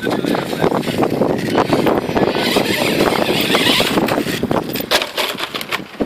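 HPI Savage Flux electric RC monster truck driving over rough ground: a dense crackle of many small knocks and rattles from its wheels and chassis on dirt and stones, with a brighter, hissier stretch in the middle.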